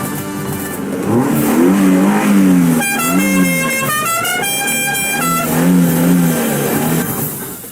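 Comedic honking sound effects, horn-like tones sliding up and down in pitch, with a higher whistle-like tone stepping up and down in the middle, over a noisy action soundtrack that cuts off suddenly at the end.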